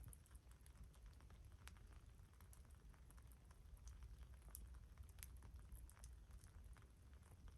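Wood campfire crackling faintly: small pops and snaps at irregular intervals over a steady low rumble.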